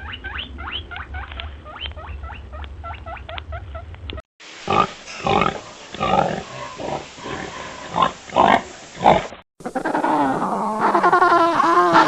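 Three short animal-call clips cut back to back: first a quick run of short high chirping calls over a low rumble, then a series of loud grunts, then a drawn-out wavering cry in the last few seconds.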